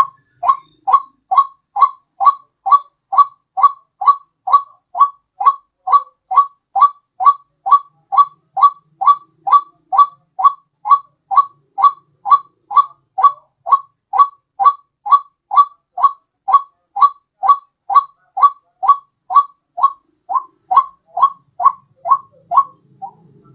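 White-breasted waterhen (ruak-ruak) call played as a bird lure: a long, evenly repeated series of short rising notes, about two a second.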